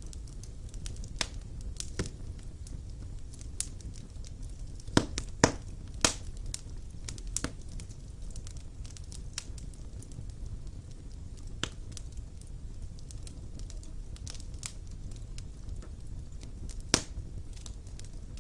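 Fire crackling in a fireplace: irregular sharp pops and snaps over a low steady rumble, with a few louder pops about five to six seconds in and again near the end.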